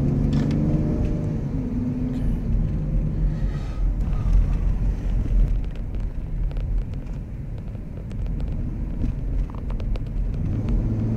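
Engine and road rumble of a 2008 Ford Explorer, heard from inside the cabin while driving. The engine's revs fall away over the first couple of seconds from near 3000 rpm while road speed holds, as the slipping automatic transmission takes hold again. The engine note rises again near the end.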